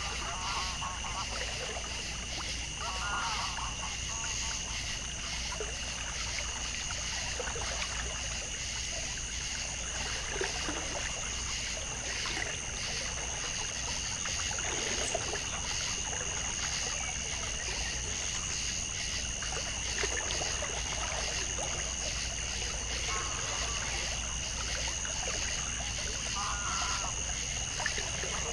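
Outdoor wildlife ambience: a steady high-pitched drone with a few short animal calls now and then, over a faint trickle of water.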